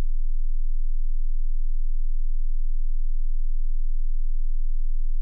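A loud, steady, very deep hum: one low unwavering tone.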